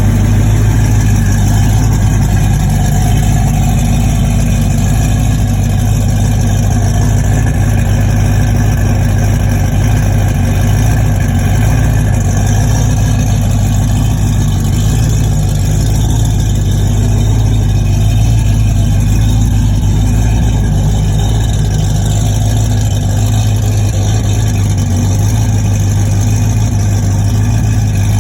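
Fox-body Mustang race car's V8 with an XE262 camshaft idling steadily, loud through Totalflow single-chamber race mufflers, with only a mild lope from the cam.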